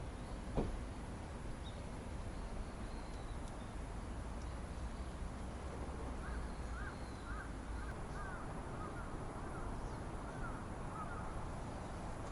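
A bird calling repeatedly in short arched notes over a steady outdoor background hiss, with a single knock about half a second in.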